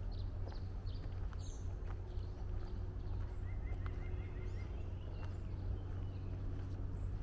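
Footsteps of a walker on a woodland trail, with songbirds chirping and, about halfway in, a quick run of about seven repeated notes, over a steady low hum.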